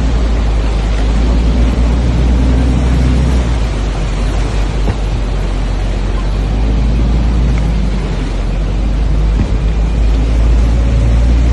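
Boat under way at sea: a steady, loud, deep rumble with rushing wind and water noise.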